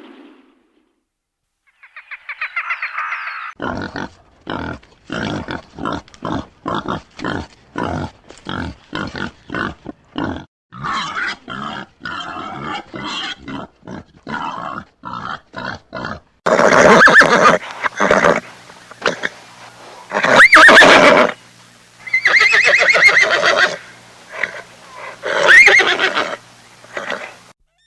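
A horse giving a long run of short, rhythmic snorts or grunts, about two or three a second, then several long, loud neighs, two of them sliding sharply up in pitch.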